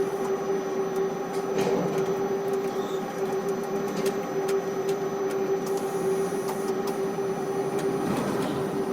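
Ship-to-shore quay crane machinery running steadily: a constant hum with a steady mid-pitched whine and occasional faint clicks.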